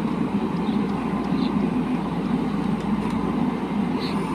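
Diesel engine of a JCB 3DX backhoe loader running steadily, a continuous low drone.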